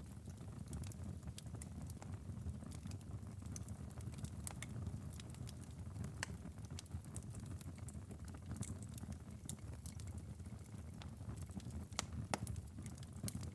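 Wood fire burning in a fireplace: a steady low rumble of the flames with irregular sharp crackles and pops, a couple of louder pops near the end.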